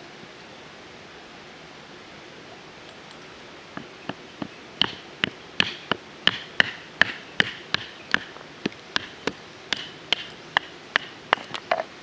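Wood being struck again and again with hard blows: about twenty sharp knocks, two to three a second, starting about four seconds in.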